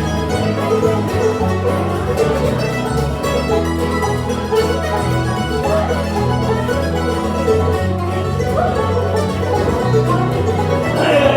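Instrumental music: a band playing plucked string instruments over a bass line that moves from note to note.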